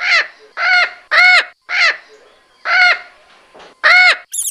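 Parrot squawking repeatedly: about six short, harsh calls, each under half a second, with brief pauses between them.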